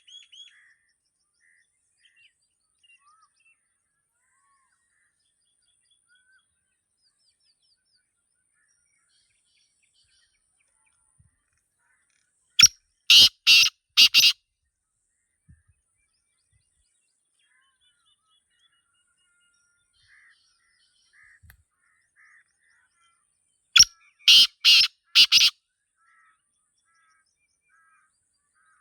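Black francolin calling twice, each call a loud, harsh run of four or five grating notes; the calls come about eleven seconds apart. Faint chirps of small birds are heard between them.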